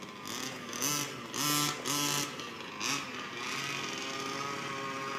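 Baja's small engine running at a distance, revving up in short surges and then settling into a steady drone, on its first test run after a rebuild.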